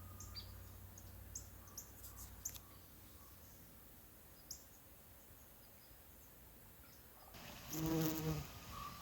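A faint outdoor scene: scattered short, high bird chirps during the first half, then an insect buzzing close for about a second, starting about seven seconds in.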